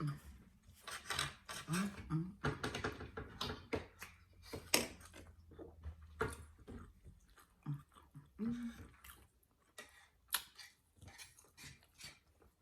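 Close-up chewing of steak and eggs: a run of wet mouth clicks and smacks, with a couple of brief hums about two seconds in and again past the middle.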